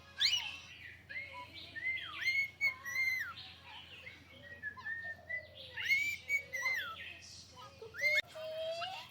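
A pet parrot whistling and chirping: a string of short whistled notes that rise and fall, with a few quick upward sweeps.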